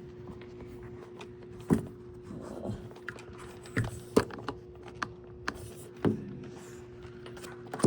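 Handling noise as a phone is worked into a small window opening: a series of sharp knocks and clicks, the loudest about two and four seconds in, over a steady hum.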